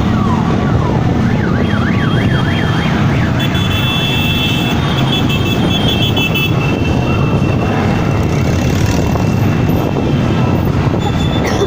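Many motorcycle engines running together, with a siren yelping rapidly up and down about a second in, followed by a few seconds of a high steady tone.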